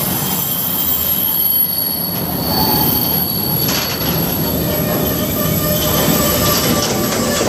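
Freight train of sliding-wall covered wagons rolling past close by: a steady, loud rumble and rattle of wheels on rail, with thin high wheel tones coming and going.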